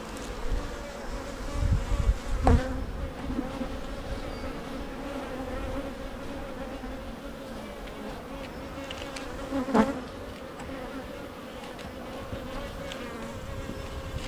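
Honey bee colony in an open hive buzzing steadily, a continuous hum. Two sharp knocks cut through it, one a couple of seconds in and another near ten seconds.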